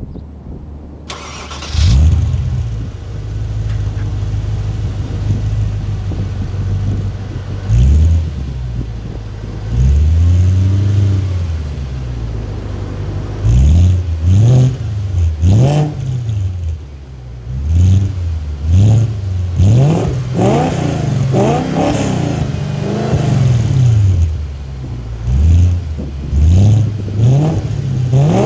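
Audi B6 S4's 4.2-litre V8 breathing through JHM headers and a Milltek non-resonated exhaust, idling and revved again and again. One longer rev comes near the middle, then a run of short, quick blips through the second half.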